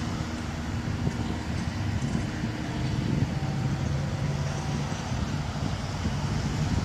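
Diesel-electric freight locomotives, GE ES44C4s, running at low throttle as the train moves slowly past, a steady low engine rumble with wind buffeting the microphone.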